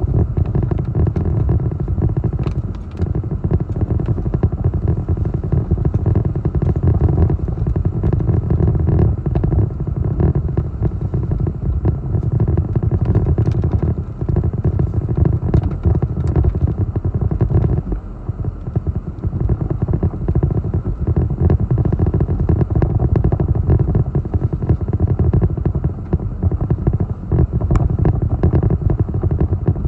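Strong hurricane wind buffeting the microphone: a continuous low rumble that surges and eases, with scattered faint ticks over it.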